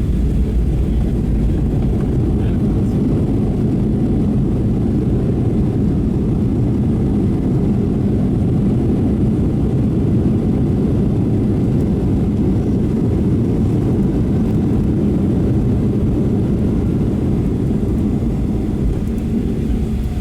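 Steady low rumble of engine and airflow noise heard inside the cabin of a Boeing 737-800 with CFM56 turbofans, with a faint steady hum underneath.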